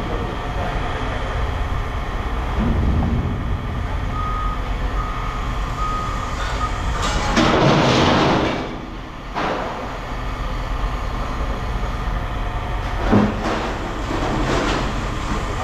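A heavy vehicle's engine running steadily at a scrap yard, with a backup alarm beeping for a couple of seconds. A loud rushing noise follows for about two seconds, and a single knock comes near the end.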